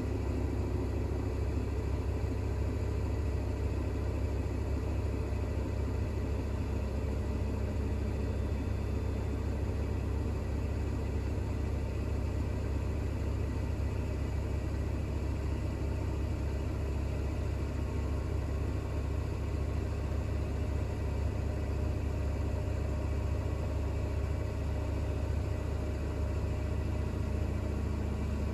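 Bosch WAX32GH1 front-loading washing machine spinning steadily during a 1200 rpm intermediate spin with an unbalanced load of towels, a low, even hum of the drum and motor.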